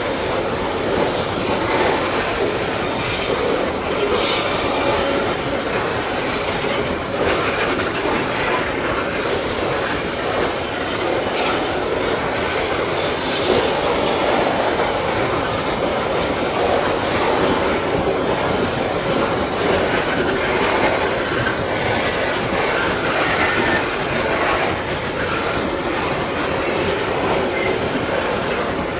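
Loaded coal hopper wagons of a long Babaranjang coal train rolling slowly past, a steady rumble of wheels on rail with brief high wheel squeals coming and going several times.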